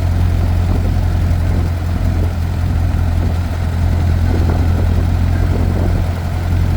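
1928 Ford Model A four-cylinder engine with a four-port overhead-valve head conversion, running steadily while not yet warmed up.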